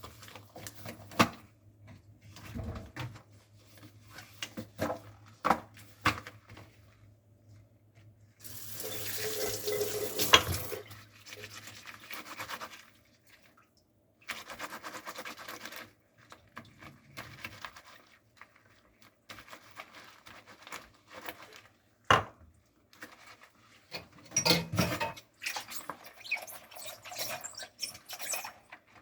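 Dishes being washed by hand at a kitchen sink: cups and dishes clinking sharply now and then, with the tap running in short spells, the longest from about eight to twelve seconds in. A low steady hum sits underneath at the start and again near the end.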